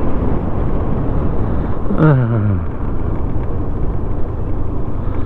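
Motorcycle ride: engine running under steady wind noise on the microphone. About two seconds in, an engine note drops sharply in pitch for about half a second.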